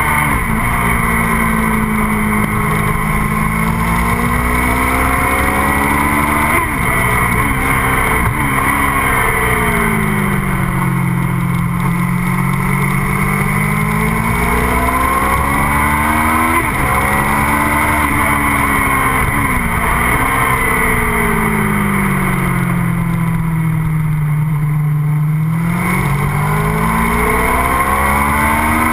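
MV Agusta F4's inline-four engine under way, its revs sweeping down and up in long arcs through the bends, with a few quick breaks in pitch at gear changes, over a steady rush of wind.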